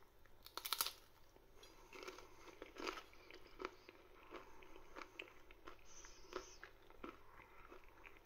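A person chewing a mouthful of cream cracker with brie and chutney: quiet, crisp crunching, with the sharpest crunch just under a second in.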